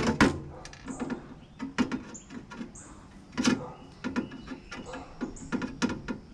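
Irregular metallic clinks, knocks and clatters of sheet-metal microwave oven parts being worked and pried apart by hand, with a few short high squeaks.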